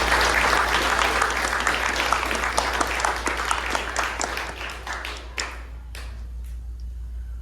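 Audience applauding, dense at first and dying away after about five seconds into a few scattered claps.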